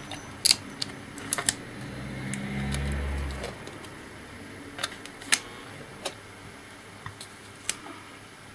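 Small sharp clicks and taps of laptop parts being handled, a few each second. A low hum swells and fades between about two and three and a half seconds in.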